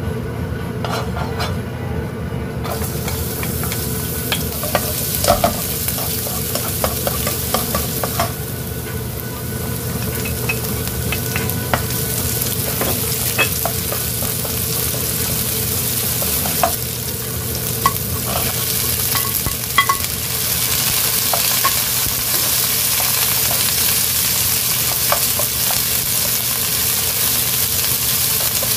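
Chopped garlic, red chilli and water spinach stems stir-frying in hot oil in a nonstick wok: a steady sizzle that fills in a few seconds in and gets louder about two-thirds of the way through. A wooden spoon clicks and scrapes against the pan as it stirs.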